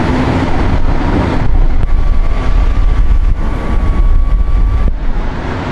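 Steady low rumble of highway traffic going by, with a faint thin steady whine through the middle of it.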